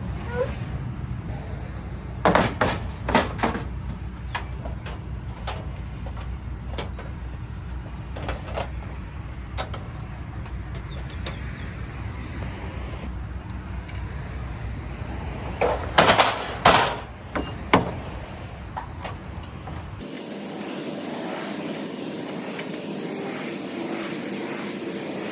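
Two clusters of loud knocks and clatter, the first a couple of seconds in and the second about two-thirds of the way through, with lighter clicks between, over a steady low rumble that cuts off abruptly near the end.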